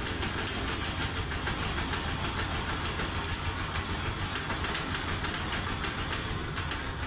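A washing machine on a fast spin, badly off balance, banging and rattling with rapid, continuous knocks over a steady mechanical drone.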